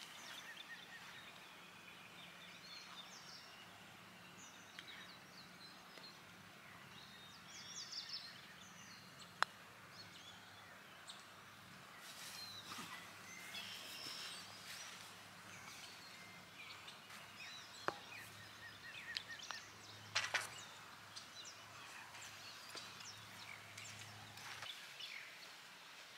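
Quiet outdoor ambience with birds chirping on and off, a faint steady low hum, and a few sharp clicks, the loudest about nine seconds in.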